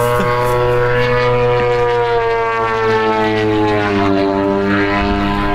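Giant-scale RC airplane's 100cc gas engine and propeller droning in flight, the pitch sliding slowly lower, then dropping off sharply at the very end, over a steady low hum.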